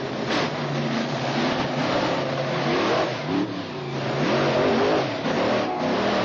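Monster truck engine revving hard, its pitch climbing and dropping several times as the throttle is worked.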